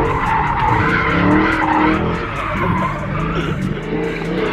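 Car spinning donuts in a burnout pit: the engine held at high revs, wavering up and down in pitch, under continuous tyre screech and skidding.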